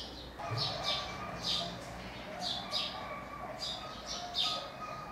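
Small birds chirping: a run of short, bright chirps every half second or so, over a faint low hum.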